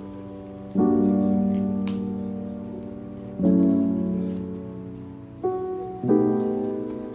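Background music: slow, soft piano chords, four in all, each struck and left to ring out and fade.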